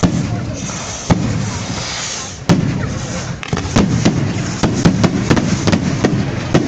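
Fireworks going off: three loud bangs a second or so apart, then a dense run of sharp crackling pops over a steady low rumble.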